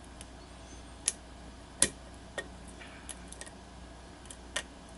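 Small, sharp metallic clicks of a lock pick working the pin stack of a pin-tumbler challenge lock, about five irregular ticks with the loudest near two seconds in. A pin that will not set and keeps springing back is being worked.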